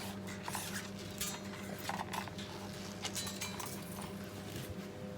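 Scattered light metallic clinks and rustles of parts being handled over a steady electrical hum in a workshop.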